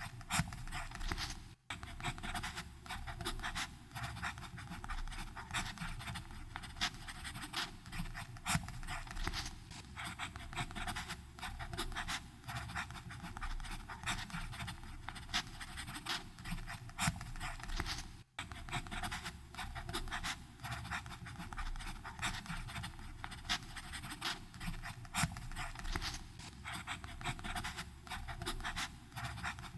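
Fountain pen nib scratching across paper in a continuous run of quick, irregular strokes, broken by two very short pauses, one early on and one a little past the middle.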